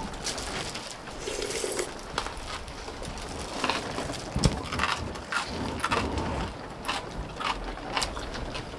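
Close-up eating sounds: crunchy chewing with irregular, crisp clicks and crackles.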